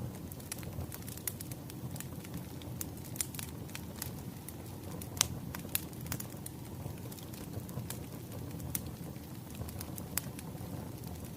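Wood fire crackling: a steady low rumble of flames with irregular sharp pops and snaps, the loudest pop about five seconds in.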